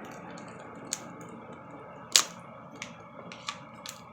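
Scattered small clicks and taps from handling the parts and powder of a toy volcano kit. The sharpest click comes about two seconds in.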